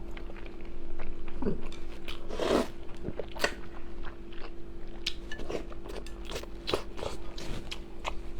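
A person eating close to the microphone: irregular chewing and biting with small crunches and wet mouth clicks.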